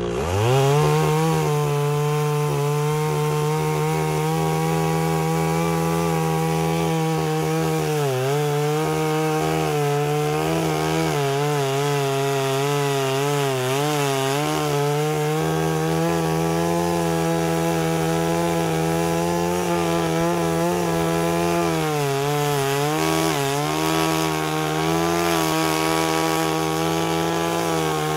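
Stihl 038 Magnum two-stroke chainsaw revved up to full throttle and cutting wood. Its pitch sags and wavers under load several times (about 8 seconds in, for a stretch in the middle, and again a little after 20 seconds), and it throttles down at the very end.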